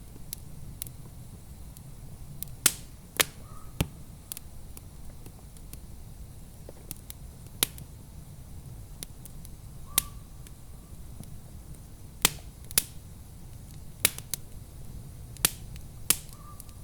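Wood fire burning in a fireplace: sharp pops and crackles at irregular intervals, about ten loud ones among many smaller clicks, over a steady low rumble.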